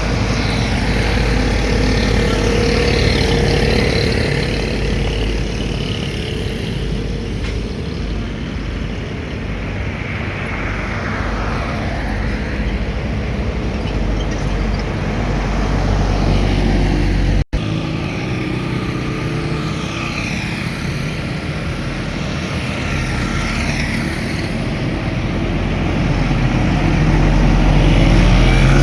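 Heavy road traffic passing close by: trucks, buses and cars with engine rumble and tyre noise swelling and fading as each vehicle goes past. The sound cuts out for an instant about two-thirds of the way through.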